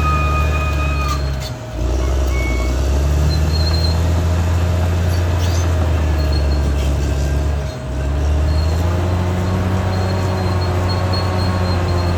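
Caterpillar D6R XL bulldozer's diesel engine running steadily under load, dipping briefly twice, about a second and a half in and again near eight seconds. A thin high whine sounds during the first second.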